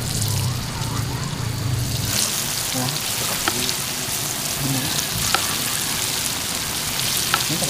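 Food sizzling as it fries in hot oil in a pan: a steady hiss with scattered sharp pops, growing brighter about two seconds in.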